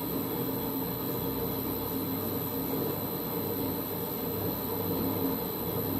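Holbrook C8 toolroom lathe running steadily while a hand-ground parting tool cuts into the work. The tool is binding in the cut and the drive belt is slipping under the load.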